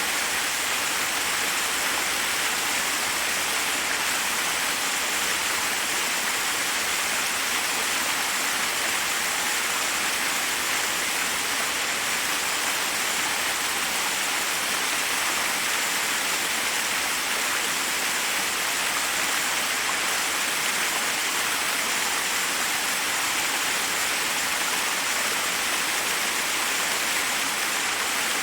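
Forest waterfall: water cascading over rocks in a steady, even rush, strongest in the high range and unchanging.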